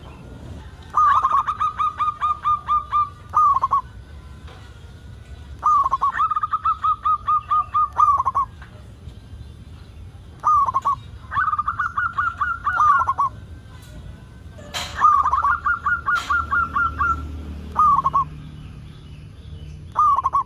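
Zebra dove (perkutut) singing its cooing song. Each phrase is a single opening coo, a quick run of about ten short coos, and a closing coo, repeated every four to five seconds. A couple of sharp clicks come about midway.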